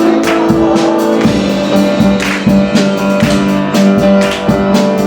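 Live worship band music: held guitar chords over a drum kit keeping a steady beat.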